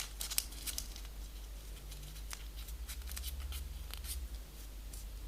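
Faint crinkles and soft ticks of a small folded paper piece being opened, pushed down and pressed closed in an origami reverse fold, over a low steady hum.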